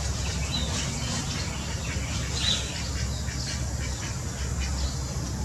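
Small birds chirping: short, high chirps a few times a second, scattered and irregular, over a steady low rumble.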